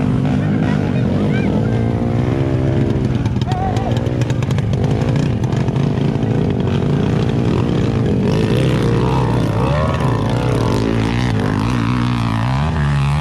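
Dirt bike engine running under load, its pitch rising and falling again and again as the throttle is worked.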